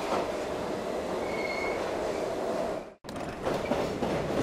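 Train running on rails, a steady rumble with a short high wheel squeal about a second and a half in. The sound cuts out abruptly for an instant about three seconds in, then carries on.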